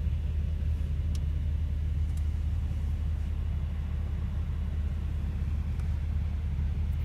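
Steady low rumble inside the cabin of a parked Mercedes-Benz E63 AMG sedan, even throughout, with a couple of faint ticks about one and two seconds in.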